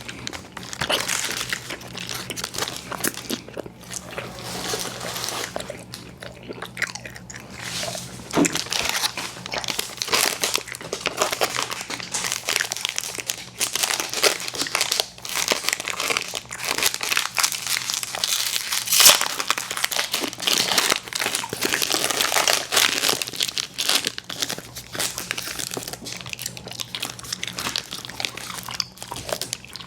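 Close-miked eating of chewy fruit candies, Airheads Bites and Tootsie Fruit Chews: continuous irregular biting and chewing mouth sounds with many small clicks. One sharp click about 19 seconds in is the loudest moment.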